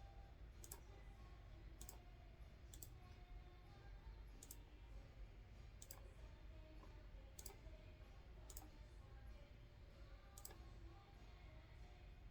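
Faint computer mouse clicks: about eight single, sharp clicks at irregular intervals of one to two seconds.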